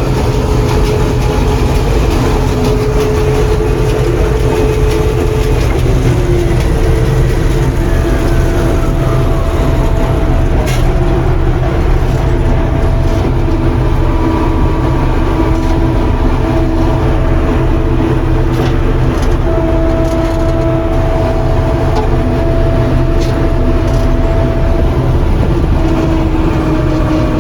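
John Deere 4400 combine running steadily while harvesting corn, its diesel engine droning under the whine of the threshing machinery. One whining tone slides down in pitch about seven seconds in.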